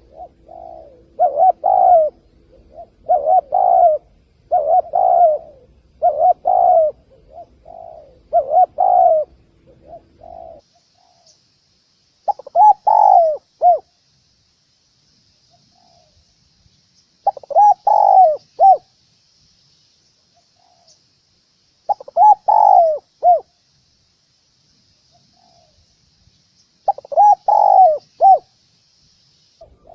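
Spotted dove cooing in repeated phrases. For the first ten seconds or so the phrases come about every two seconds; then the background changes abruptly and the phrases come every four to five seconds.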